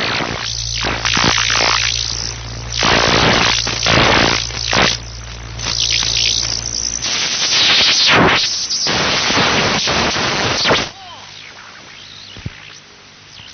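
Loud, irregular bursts of hissing noise over a steady low hum. The hum stops about seven seconds in, and the noise drops away sharply near eleven seconds.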